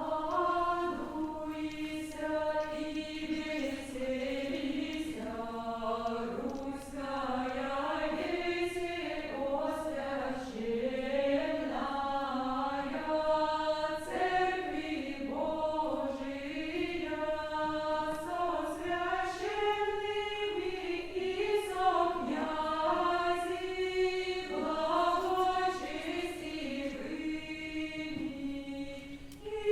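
Choir singing Old Russian chant-like music, a single flowing melody line sung together without breaks.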